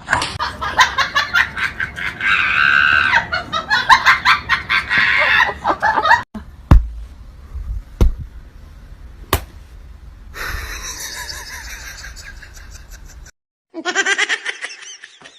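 A person laughing hard in quick repeated bursts for about six seconds, followed by a few sharp knocks and a short voice-like sound near the end.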